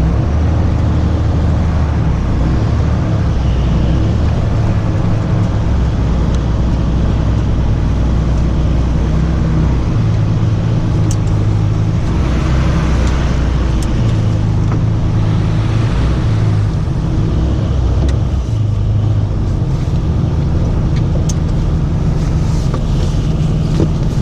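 Tow truck's engine running as it drives: a low, steady drone that steps up and down in pitch several times as the engine speed changes.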